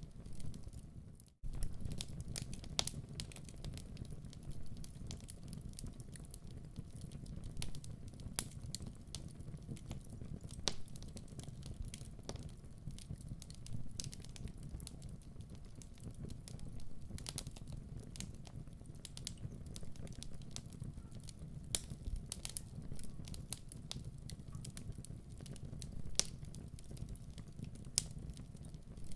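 Wood fire crackling and popping in a fireplace, irregular sharp cracks over a steady low rumble of the flames. The sound drops out for a moment about a second in.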